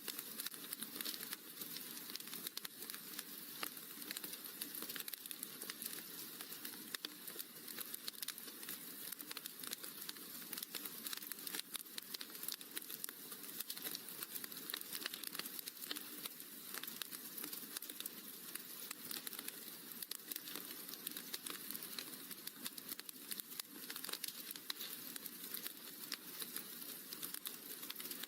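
Wood fire crackling in a fireplace: a steady stream of small pops and snaps over a constant hiss.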